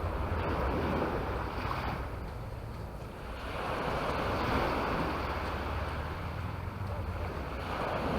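Sea waves washing onto the beach, the hiss swelling and fading about three times, with wind rumbling on the microphone.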